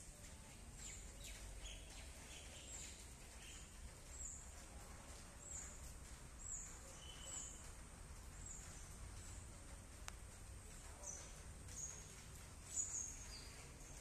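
A small bird repeating short, high chirps, each a quick falling note, about one a second. The chirps are faint over a steady low background rumble, with a louder one near the end.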